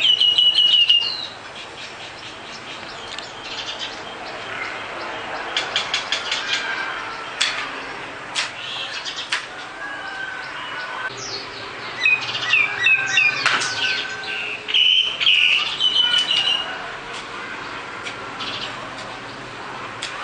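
Small birds chirping and calling, with short whistled notes and quick trilled chirps, loudest just after the start and again about twelve to seventeen seconds in.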